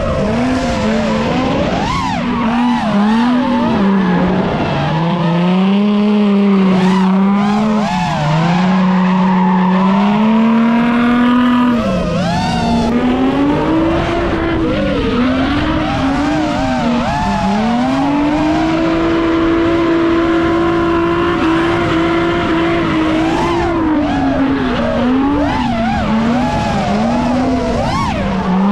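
Nissan 350Z drift car's V6 engine revving up and down as the throttle is worked through a drift, held at a steady higher pitch for a few seconds past the middle, with tyres skidding and squealing underneath.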